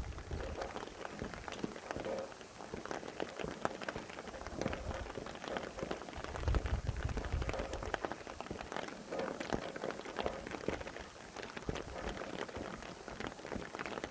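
Steady rain falling, with many separate drops ticking on a surface, and a low rumble of wind swelling briefly about halfway through.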